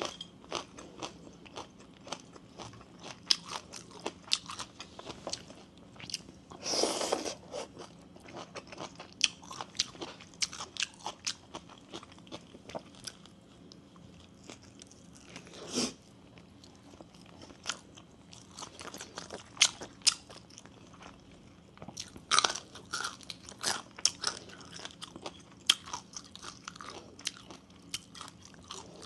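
Close-up mouth sounds of eating bamboo-shoot soup with sticky rice: irregular crunching and chewing clicks, with a longer, noisier burst about seven seconds in and a short one near sixteen seconds.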